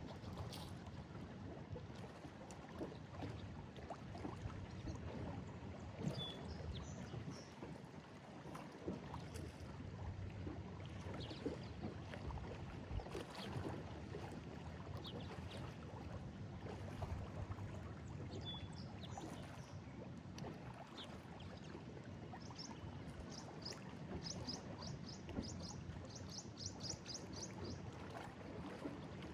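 Lake Erie waves lapping and splashing against a break wall, a continuous uneven wash with small slaps and gurgles. A few high chirps sound now and then, and a quick run of them comes near the end.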